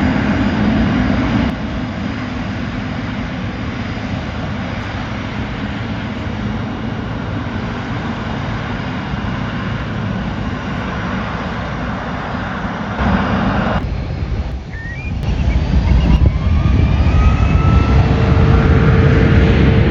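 Jet airliner engines heard from the ground, a steady rush that breaks off abruptly a few times. Near the end a rising whine comes in over a louder, steady low rumble.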